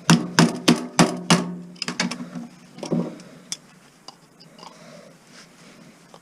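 Hammer blows on metal, five quick strikes about three a second, each ringing briefly, then a few lighter knocks, as heavy copper transformer winding too thick to cut is hammered through.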